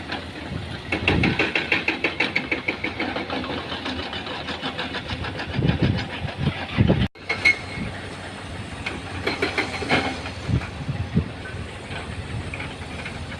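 Heavy diesel machinery, a dump truck and an excavator, running and working under load, with a rapid rhythmic clatter over the engine sound. The sound cuts out for an instant about halfway through, then carries on.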